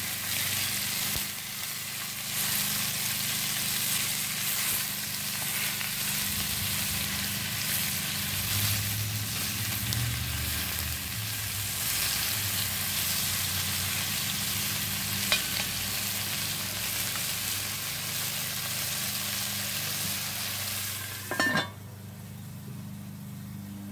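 Cubed chicken sizzling in hot oil in a cast iron Dutch oven, stirred and turned with a slotted spoon. Near the end the cast iron lid goes on with a ringing clank and the sizzle drops away.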